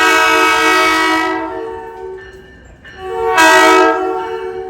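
Locomotive air horn sounding a chord of several notes: a long blast that fades out about a second and a half in, then a second, shorter blast about three seconds in.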